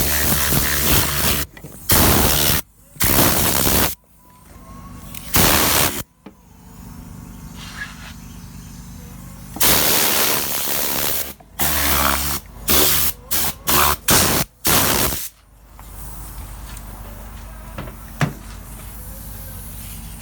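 Agitating air cleaning gun firing short blasts of compressed air, a loud hiss that starts and cuts off abruptly, about nine times, several in quick succession in the middle. A steady motor hum runs underneath and carries on after the blasts stop.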